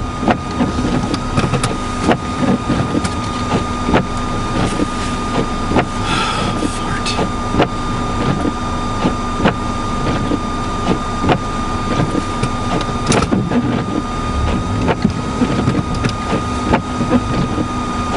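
Steady running noise of a car stuck in a snowdrift with its engine on, a thin steady whine over it and frequent small clicks and crackles.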